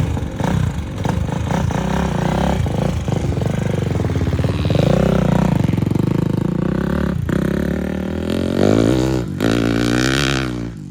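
Motocross motorcycle engines running and being revved, the pitch rising and falling in sweeps, most clearly near the end.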